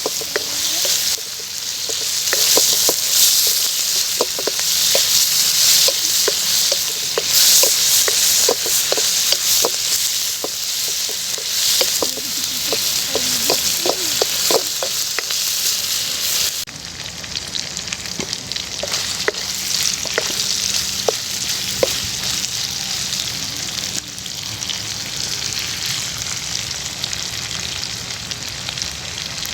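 Beef liver frying in hot oil in a pan, a loud steady sizzle with many short clicks and pops through it. About halfway through, the sizzle suddenly becomes quieter and duller.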